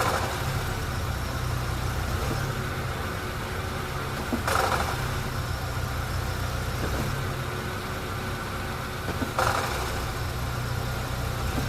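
Honda Fit engine idling with its CVT gearbox, with two brief rattles about five seconds apart as the transmission is put into drive. The rattle is the shudder of a failing CVT flywheel whose damper springs have come loose inside it, a chronic Honda CVT fault.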